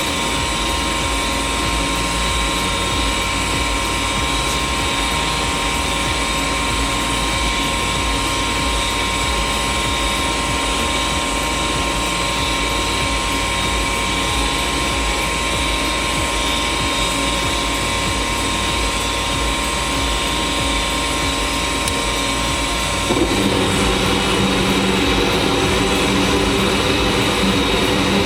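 Gas furnace running on a test start after its dirty flame sensor was cleaned: a motor's steady whine. About 23 seconds in, a deeper hum joins and the sound gets slightly louder.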